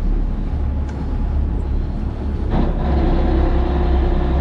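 Fishing boat's engine running with a steady low hum. About two and a half seconds in, a steady pitched whine joins it and holds.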